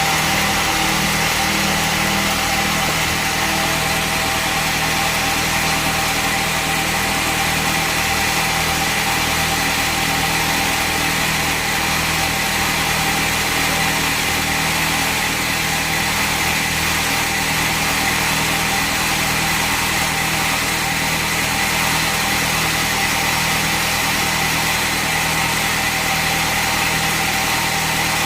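Bandsaw sawmill machinery running steadily: an engine-like drone with a steady high whine, with no change in load.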